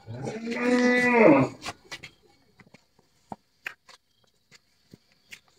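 A cow mooing once, a long steady call of about a second and a half, followed by a few light clicks and knocks.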